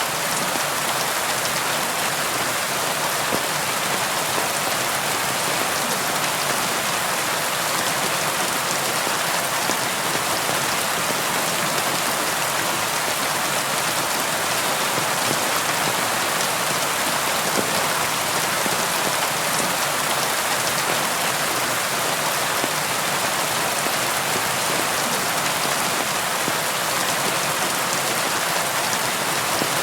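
Steady rainfall, a constant even hiss of many raindrops with fine scattered patter.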